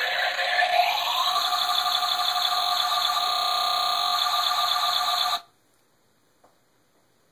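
Circuit-bent toy washing machine's sound chip putting out a loud, glitchy electronic buzz of layered tones over noise. The pitch rises during the first second, then holds steady before cutting off suddenly a little past five seconds in, followed by a couple of faint clicks.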